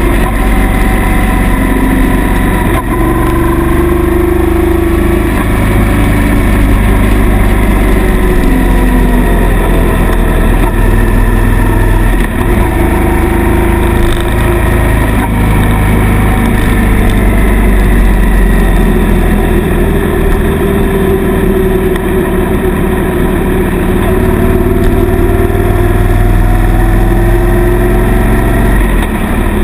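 Suzuki M800 motorcycle's V-twin engine running on the move, its pitch slowly rising and falling as the speed changes.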